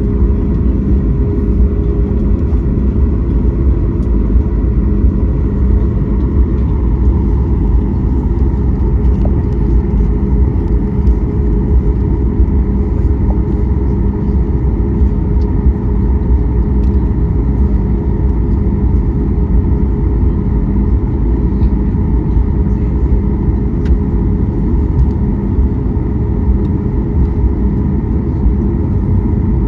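Boeing 737 MAX 8 jet engines running, heard inside the passenger cabin as a loud, steady rumble with a steady hum over it.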